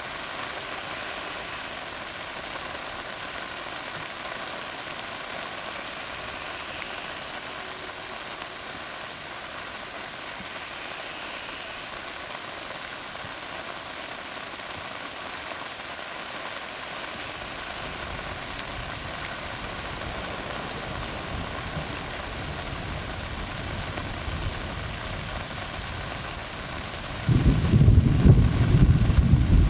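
Steady rain falling on a tarred road: an even hiss with a few sharper drop ticks. A low rumble of thunder builds from about two-thirds of the way through, then breaks suddenly into a loud, deep peal near the end.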